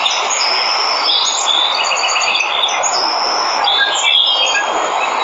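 Steady rush of falling water from a waterfall, with several birds chirping and whistling high above it throughout.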